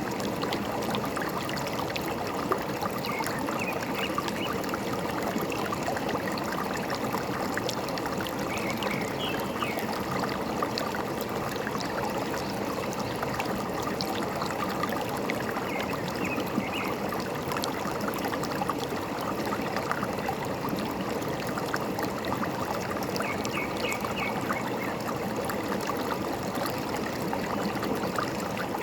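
Forest stream running and trickling steadily, with faint short bird chirps a few times.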